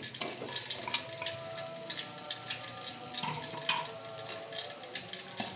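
Chopped garlic and shallots sizzling in hot cooking oil in a wok: a steady hiss with fine crackles. There is one sharp tap about a second in.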